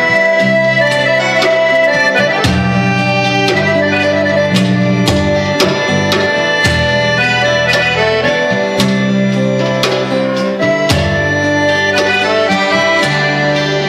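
Instrumental break in a folk song: accordion playing a sustained melody over strummed guitar and a bass line in a steady rhythm.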